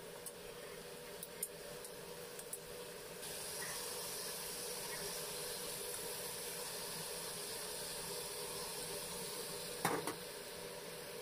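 Chicken wings sizzling in hot oil in a wok, a steady frying hiss that gets suddenly louder about three seconds in. A couple of sharp knocks near the end.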